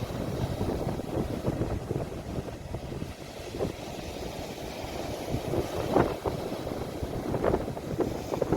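Ocean waves washing against the shore, heard as a low rumbling wash that swells and eases, with wind buffeting the phone's microphone.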